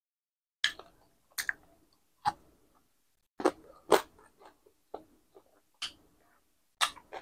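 A person biting and chewing crispy pan-fried pork belly, with sharp crunches at uneven intervals of roughly a second.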